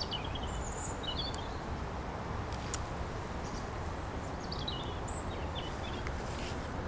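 Small birds chirping in a few short, high phrases over a steady low outdoor background rumble.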